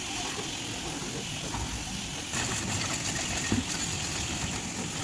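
A machine running steadily with a constant hiss, and a few faint knocks.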